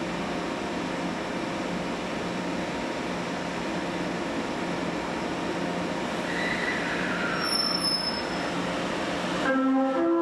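Train moving at a station platform, a steady rushing noise with a low hum, with a brief squeal falling in pitch a little past the middle. Near the end the rush cuts off suddenly and a run of pitched notes begins, stepping from one pitch to another.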